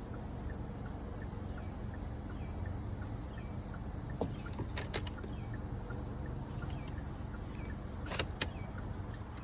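Steady low hum and rumble of a car idling, heard from inside the cabin, with a few short clicks in the second half.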